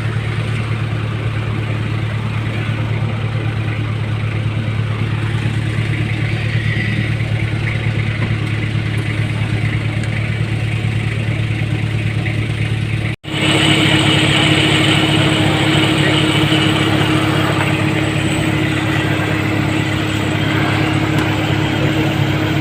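Vehicle engine idling steadily. About thirteen seconds in the sound cuts off abruptly and comes back as a steady engine hum with a higher tone.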